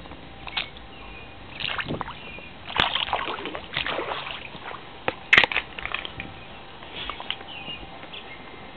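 Floodwater sloshing and splashing in irregular surges, with two sharp knocks, the louder one about five and a half seconds in.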